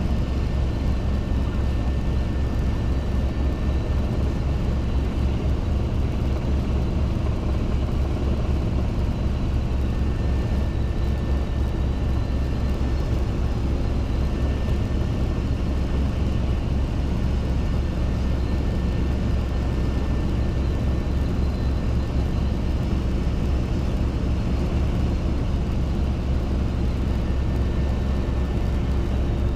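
Robinson R22 helicopter in flight: steady engine and main-rotor noise with a fast, even low throb from the rotor blades.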